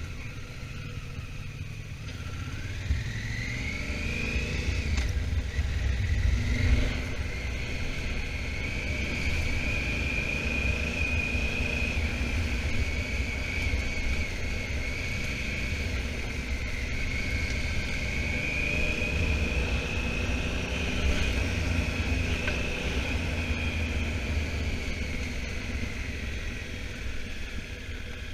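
Honda Africa Twin motorcycle under way. The engine revs rise in the first few seconds, then hold fairly steady at cruising speed, with a heavy wind rumble on the microphone.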